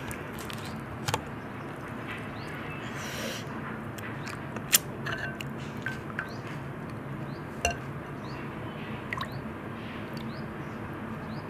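Pani puri being eaten: a mouthful of the crisp, water-filled puri being chewed, with a few sharp clicks scattered through, over a steady low hum.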